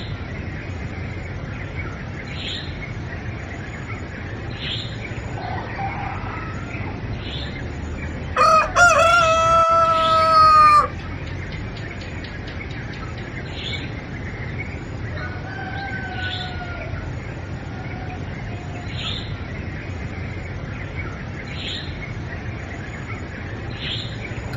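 A rooster crowing once, a long call of about two and a half seconds starting about a third of the way in. Fainter bird calls twice, short high chirps repeating every couple of seconds, and a steady background hiss.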